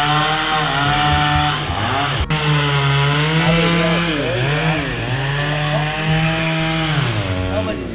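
Petrol chainsaw running at speed, its engine note dropping and climbing back several times as it bogs down and recovers, typical of cutting into wood.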